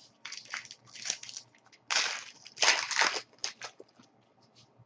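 Foil wrapper of a hockey card pack crinkling and rustling in several bursts as it is handled and opened, the loudest about two to three seconds in, followed by a few lighter clicks.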